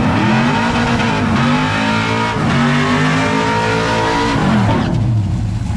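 Full-size pickup truck's engine revving hard during a burnout. The pitch climbs, dips briefly about halfway through, climbs again, then falls away near the end.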